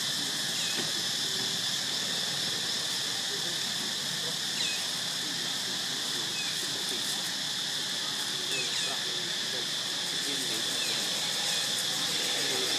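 Steady high-pitched insect drone, with scattered short faint squeaks over it.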